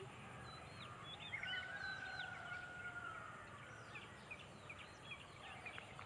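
Faint wild birds calling: many short chirping notes throughout, and one long, nearly level, slightly falling call from about one and a half to three seconds in.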